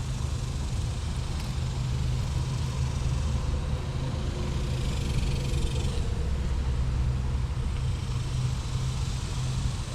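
Steady low rumble of nearby road traffic, with a faint higher tone rising over it about four seconds in.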